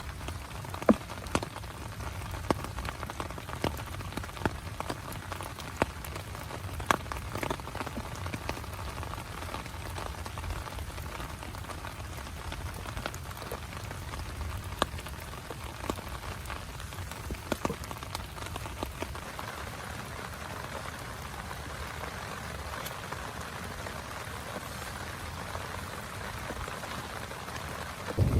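Steady rain falling on a small tent, with scattered louder drops striking sharply at irregular moments.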